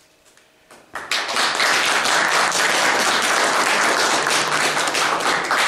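An audience applauding: many hands clapping together, starting suddenly about a second in and holding steady until near the end.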